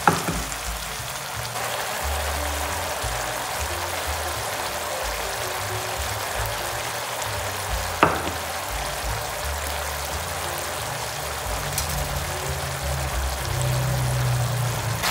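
Liquid seasoning sizzling and simmering in a pan of minced pork, a steady frying hiss, over background music with a bass line. There is a single sharp tap about eight seconds in.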